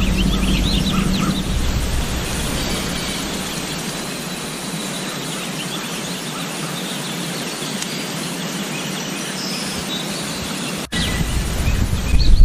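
Small birds chirping over a steady outdoor hiss, with wind rumbling on the microphone at the start and again after a sudden cut about eleven seconds in.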